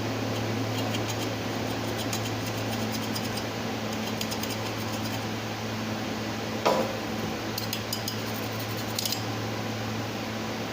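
Light metallic clicks and clinks of hand tools and small metal parts being handled, in two clusters, with one louder knock about two-thirds of the way through, over a steady low hum.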